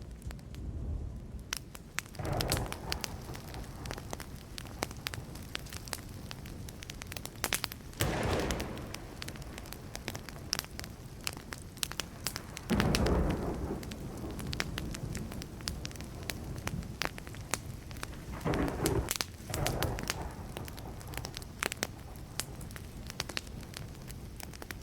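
Wood fire crackling, with frequent sharp pops. Short rumbles of distant thunder swell up several times, the loudest about halfway through.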